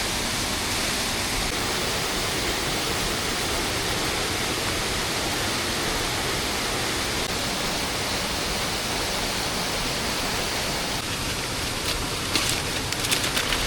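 Heavy rain falling steadily, an even rushing hiss. A few sharp clicks come near the end.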